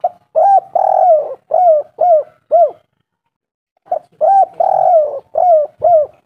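Spotted dove cooing twice. Each phrase is a short note, a longer drawn-out coo, then three or four quick arched coos.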